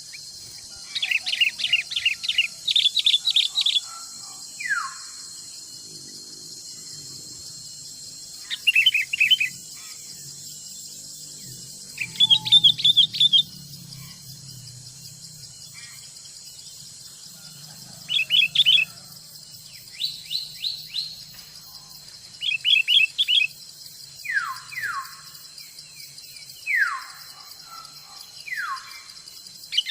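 Forest songbirds calling in bouts of quick chirps, with several quick downward-sliding whistled notes toward the end, over a steady high-pitched insect drone.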